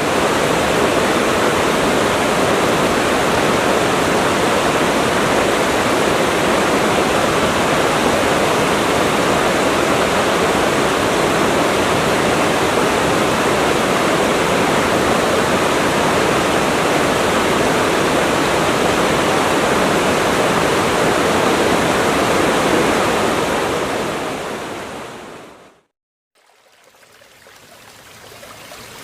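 Waterfall: a steady, loud rush of falling water. It fades out near the end, after a brief silence a quieter flow of water fades back in.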